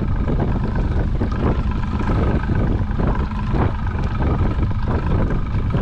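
Heavy wind buffeting the microphone on a fishing boat, a constant rumble with irregular gusty spikes, over a faint steady hum from the boat's motor.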